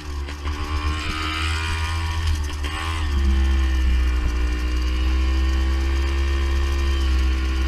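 Two-stroke engine of a vintage Beta Synt trials motorcycle running steadily. About three seconds in the revs dip briefly, then it settles to a louder, even note.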